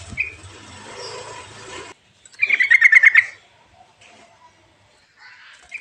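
Trucukan (yellow-vented bulbul) song: a short call, then a loud, rapid bubbling trill lasting about a second, and a brief call near the end.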